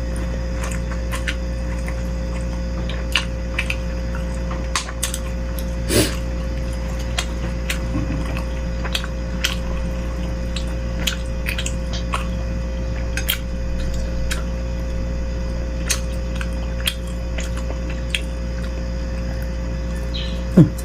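A person eating beef-rib bakso soup up close: scattered wet mouth clicks and chewing, with sips of broth and light taps of cutlery on the bowl, over a steady background hum. A louder click comes about six seconds in.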